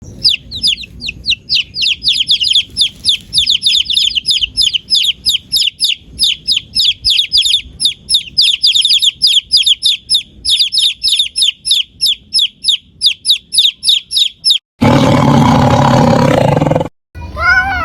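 Birds chirping rapidly, several short falling chirps a second for about fifteen seconds. Then a rough, noisy sound for about two seconds, and near the end a cat's meow begins, falling in pitch.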